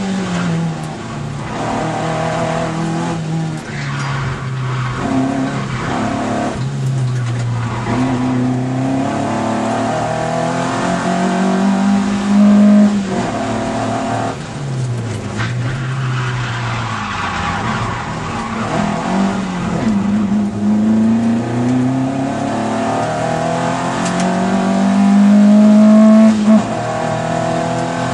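Ford Capri's 2-litre engine heard from inside the cabin, driven hard: the revs climb and drop again and again through gear changes and lifts off the throttle, highest about twelve seconds in and near the end.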